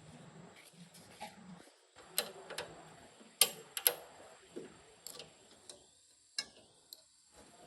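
About a dozen light, sharp clicks and taps at uneven intervals, like small hard objects being handled or set down, with a faint low hum in the first second or so.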